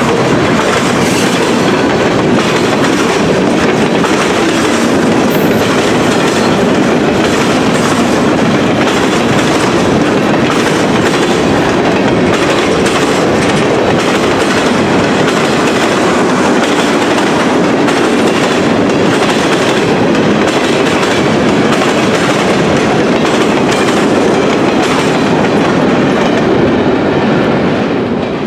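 Freight cars rolling past close by, a steady loud clatter of steel wheels over the rails with repeated clicks at the rail joints. Near the end the noise drops away as the last car clears.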